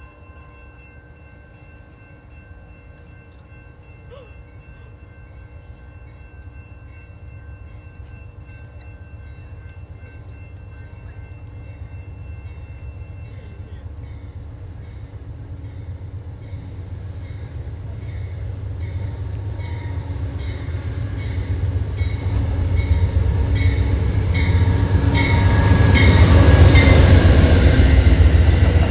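Train approaching and passing close, its low rumble growing steadily louder to a peak near the end, with a regular clicking of wheels that strengthens as it nears. Several steady tones hold through the first half and stop about halfway.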